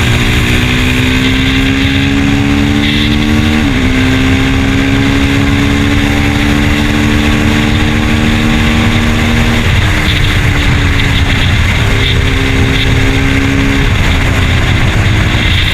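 2024 KTM Duke 390 Gen 3's single-cylinder engine pulling under way. Its note climbs slowly, then drops suddenly about four seconds in and again near ten and fourteen seconds, as at gear changes, over a steady low rumble.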